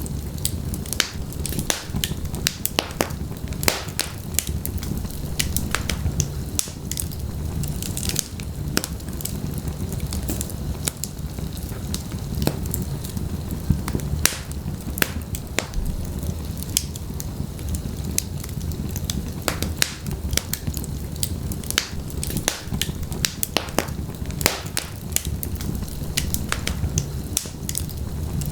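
Wood fire burning in a fireplace: a steady low rumble of flames with frequent, irregular sharp crackles and pops throughout.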